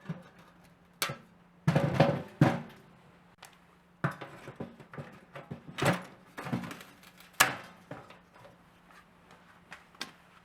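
A series of irregular knocks and clatters, the loudest cluster about two seconds in, with further single knocks at uneven intervals, over a faint steady hum.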